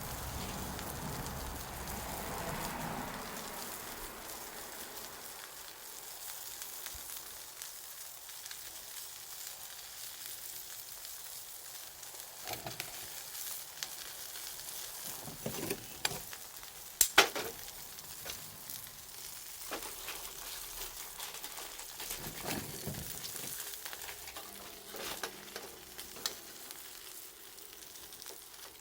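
Bonfire crackling and hissing, with scattered sharp pops, the loudest about seventeen seconds in.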